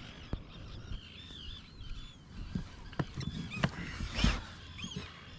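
High arched chirping bird calls repeat over a run of sharp knocks as a fish is brought up on a line. About four seconds in there is one louder splashing thump.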